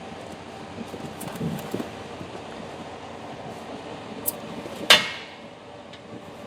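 Plastic trim pieces and push clips being handled and pried out under the hood: a few soft knocks and clicks, then one sharp, loud clack about five seconds in that rings briefly.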